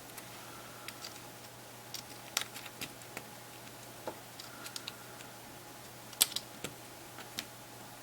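Irregular small clicks and light taps from reassembling a Samsung Galaxy Player 5.0 by hand, as flex cables and small components are pressed into place. The sharpest click comes about six seconds in.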